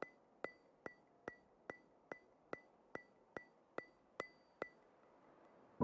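A ticking sound effect: short, evenly spaced ticks with a light ring, about two and a half a second, stopping about a second before the end.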